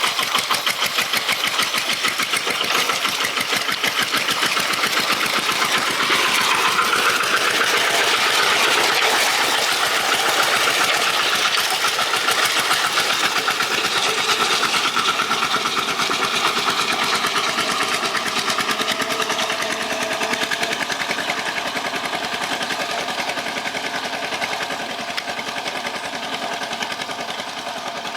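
Tractor engine running with a rapid knocking beat, the revs rising about six seconds in and easing off near the end.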